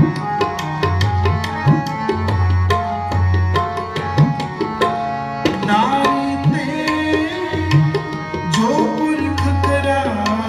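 Tabla playing a fast, busy pattern of crisp strokes, with the bass drum's deep strokes sliding in pitch, over held, steady melody notes from an accompanying instrument.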